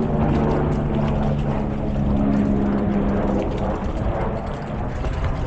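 Motor vehicle engine droning with a steady, slowly shifting pitch that fades after about three and a half seconds, over wind rumble on the microphone.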